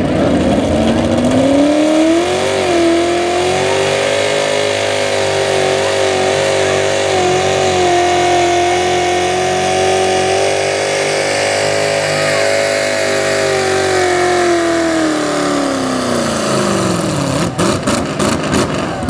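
Super stock two-wheel-drive pulling truck's engine revving up in the first couple of seconds and held at high revs, loud and steady, for about twelve seconds under the load of the sled. The revs then fall away as the pull ends, followed by a few sharp crackles.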